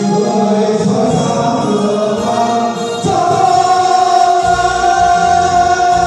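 Music with a choir singing long held notes; a steady held chord begins about halfway through and a low bass comes in shortly after.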